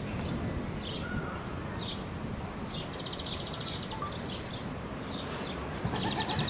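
Small birds chirping in the background: short high chirps and quick rattling trills repeated every second or so, over a steady hiss of outdoor background noise.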